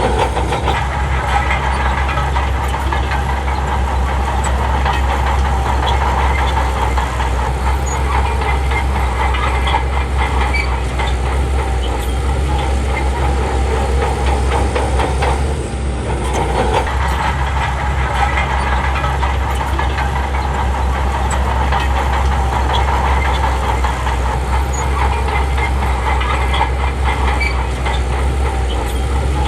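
Shantui crawler bulldozer's diesel engine running steadily under load, with a constant clatter from its steel tracks. The sound dips briefly about halfway through.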